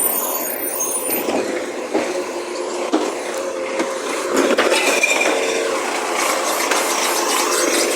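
Recycling truck emptying a bin: a scattered clatter and clinking of recyclables falling into the hopper over the truck's running engine and hydraulics.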